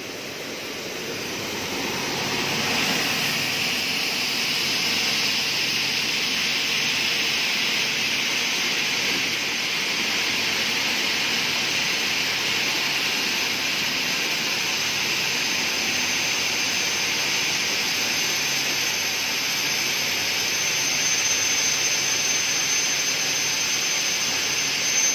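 Double-head aluminium cutting saw running, its two 2.2 kW motors spinning the 450 mm saw blades with a steady high whirring hiss that builds over the first few seconds and then holds.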